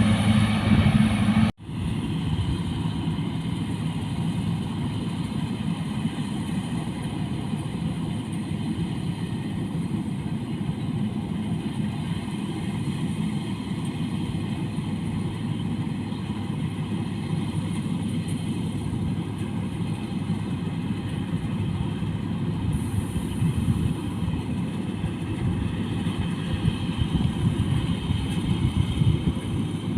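Cabin rice combine harvester's engine and machinery running steadily. The sound drops out for an instant about one and a half seconds in, then carries on unchanged.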